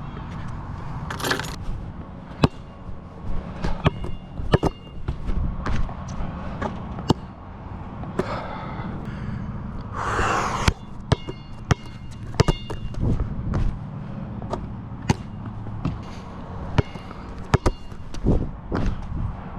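A basketball bouncing on an outdoor court: a string of sharp separate bounces, some followed by a short metallic ring, with a brief rushing sound about a second in and again around ten seconds in, over a steady low rumble.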